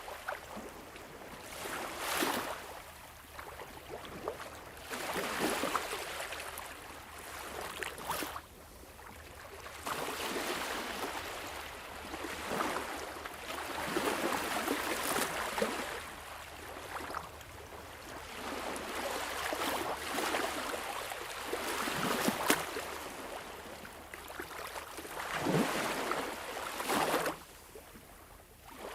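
Sea waves washing in, the rush of water swelling and falling away every few seconds with splashy peaks.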